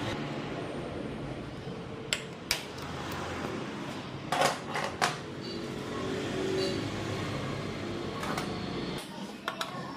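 Metal clinks and knocks of tools and engine parts being handled, a few separate sharp clinks with a small cluster near the middle, over a steady background hum that drops away near the end.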